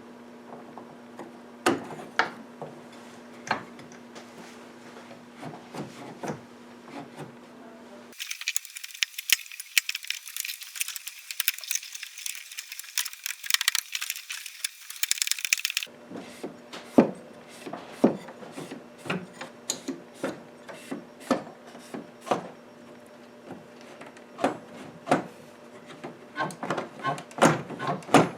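Scattered clicks and knocks of wooden and metal pump-organ stop linkages being handled and fitted into place. For several seconds about a third of the way in, the sound thins to dense high-pitched ticking and crackle.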